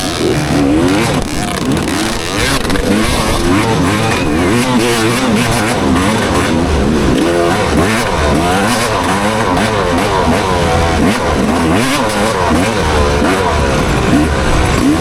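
Motocross bike engine revving up and down over and over, its pitch rising and falling every second or so as the throttle opens and closes.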